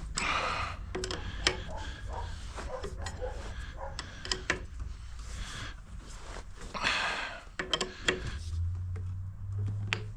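Scattered clicks and knocks of hand tools and metal fittings being handled, with two short rustling stretches, over a low steady hum.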